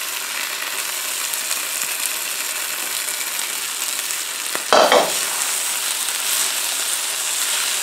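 Chicken, peppers, onion and peanuts sizzling as they are stir-fried in a very hot wok, with a spatula stirring through them. There is a brief louder scrape about five seconds in, and after it the sizzle runs a little louder.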